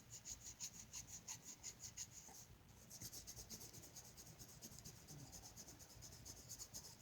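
Faint, quick scratchy strokes of a colouring tool on paper, about four or five a second, with a short break about two and a half seconds in.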